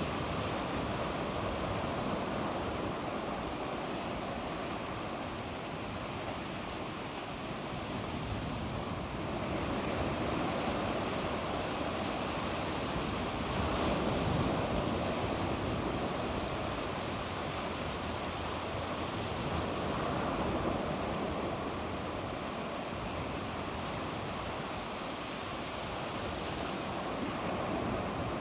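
Sea waves breaking and washing on the shore in a steady surf wash that swells and eases every few seconds.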